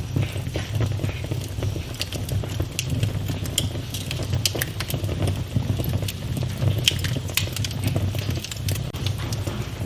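Wood fire burning in a fireplace, crackling with frequent sharp, irregular pops over a low steady rumble of the flames.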